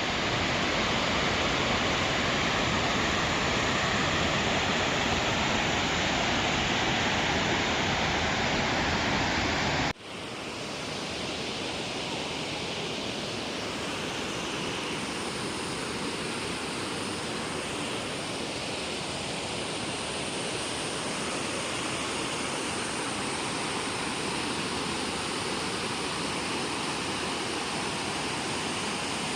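Steady roar of a waterfall's rushing water. About ten seconds in it cuts abruptly to a slightly quieter stretch of the same kind of rushing water.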